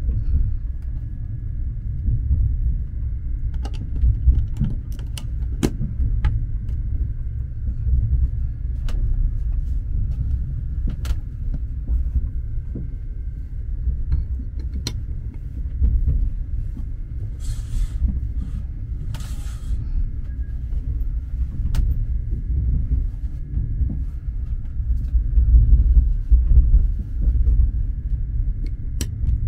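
Low, steady rumble of a sleeper train carriage running along the rails, heard from inside the cabin, with scattered light clicks and knocks. Two short hissing rustles come a little past the middle.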